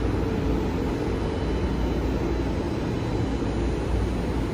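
Light-rail train running, a steady low rumble heard from inside the passenger car.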